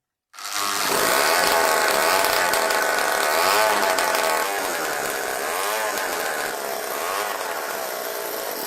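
1970 Solex moped's small two-stroke engine running, its pitch rising and falling a few times. The restored moped is running again.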